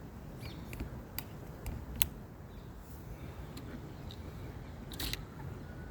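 Irregular sharp taps and clicks, about eight of them, the loudest around two and five seconds in, over a low steady rumble.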